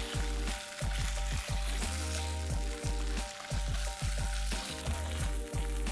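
Diced onion and whole spices sizzling in hot oil in a nonstick pan, stirred with a silicone spatula, under background music with a repeating bass line.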